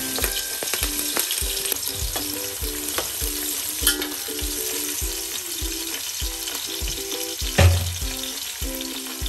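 Sliced green chillies sizzling in hot oil in an aluminium pot as they are stirred with a steel spoon, with a steady frying hiss. A louder knock comes about seven and a half seconds in.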